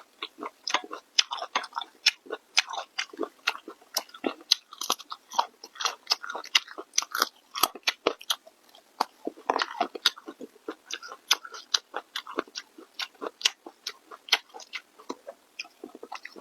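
Close-miked chewing and biting: a dense, irregular run of quick wet smacks and crunchy clicks of someone eating with their mouth near the microphone.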